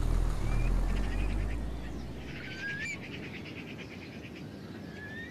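Birds calling: short whistled notes that slide up in pitch and rapid chattering trills, coming again and again from about a second in. A low rumble fades out over the first two seconds.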